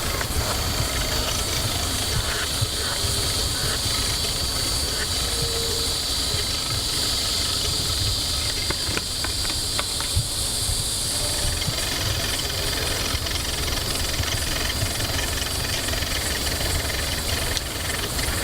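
Steady high-pitched insect buzz over a low rumble, with a few faint scattered clicks. No woodpecker drumming or call stands out.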